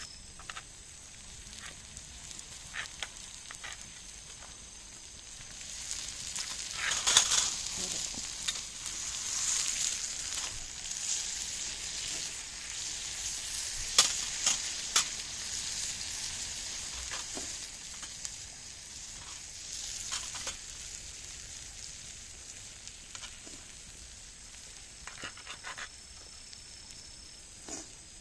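Food sizzling in a hot pan, with scattered pops and clicks. The sizzle swells louder about six seconds in and eases off again in the second half.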